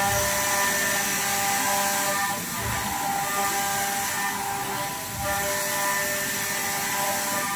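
CNC machine tool running and cutting, a steady whine of several pitches over a cutting hiss that changes character about two seconds in and again about five seconds in.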